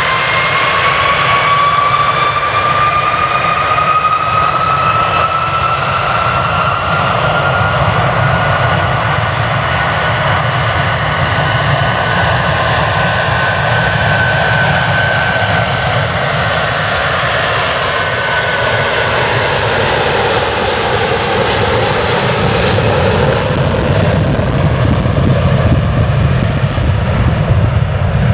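Jet airliner taking off under full thrust: a steady, loud jet roar with a fan whine that slowly rises in pitch, then a hissier surge of noise as the aircraft passes, about two-thirds of the way through.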